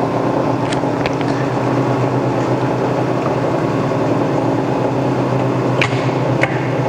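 1976 DoAll/Harrison M300 engine lathe running steadily at a higher spindle speed with the threading feed engaged: a steady hum of several tones, with a few faint clicks.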